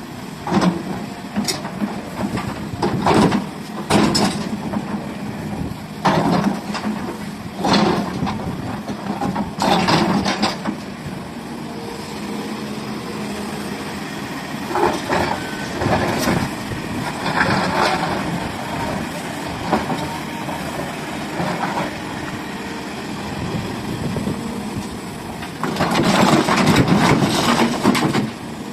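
SDLG hydraulic excavator's diesel engine running steadily, broken by repeated short bursts of clattering and scraping from the bucket working, loudest near the end.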